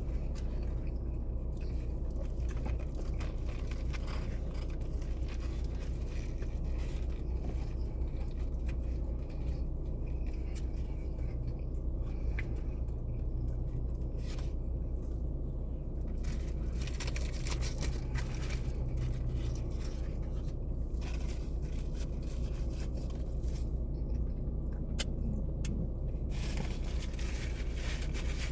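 Steady low hum inside a parked car's cabin with the engine idling. Faint scrapes and small clicks come now and then.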